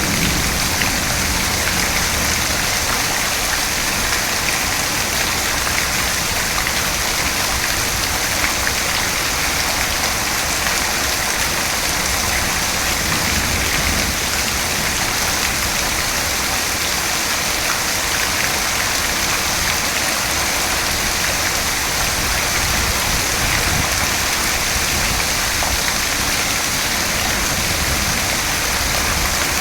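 Steady, constant rain falling and pattering on surfaces.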